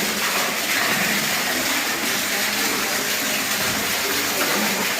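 Water rushing steadily through a cave, a constant even noise without breaks.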